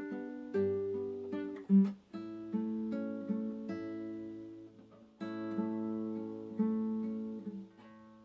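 Acoustic guitar playing slow, gentle music: plucked chords and single notes that each ring out and fade, with brief gaps between phrases.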